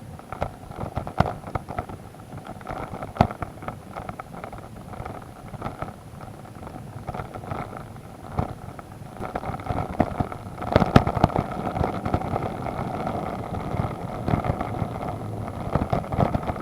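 Adventure motorcycle engine running steadily under a bike-mounted camera, with frequent sharp knocks and rattles as it rides over a rough, muddy track. The engine gets louder from about halfway through.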